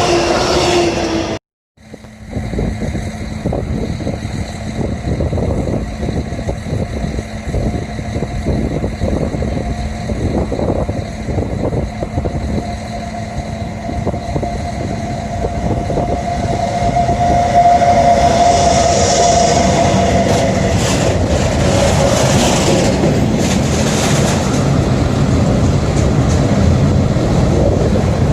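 Train running through the station, its wheels clattering over the rail joints under a steady rumble and hum. A thin tone, like wheel squeal, swells and holds for a few seconds past the middle. The sound breaks off for a moment about a second and a half in.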